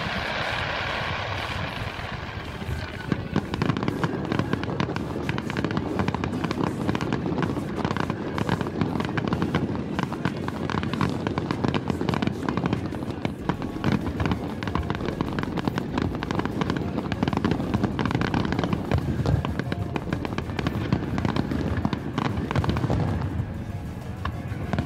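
Aerial fireworks display, with many shells bursting in quick succession as a dense, continuous run of bangs and crackling.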